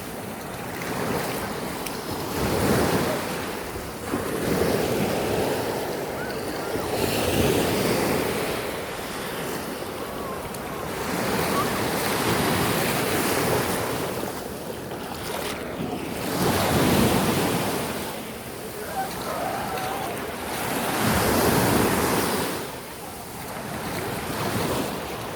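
Black Sea surf washing onto the beach, waves breaking in swells every few seconds, with wind rumbling on the microphone.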